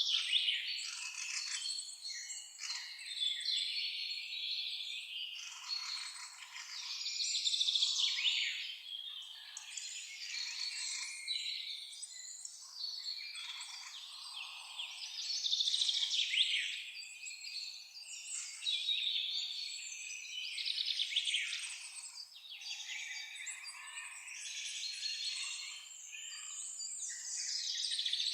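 Several songbirds singing and chirping at once, their calls overlapping and rising and falling in loudness every few seconds.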